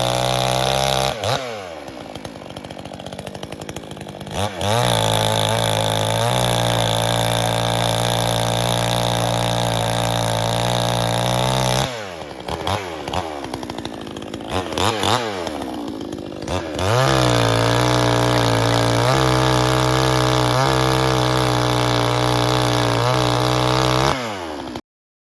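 Pinkway 63cc gas chainsaw held at high revs for two long stretches, about seven seconds each, bucking a dead oak log. Between them it drops back to a lower speed with short throttle blips. The sound cuts off suddenly near the end.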